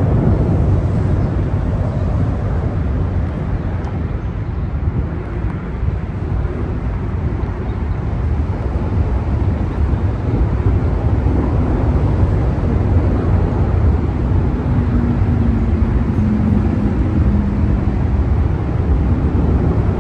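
Loud steady rumble of wind and road noise from a moving vehicle, with no clear engine note.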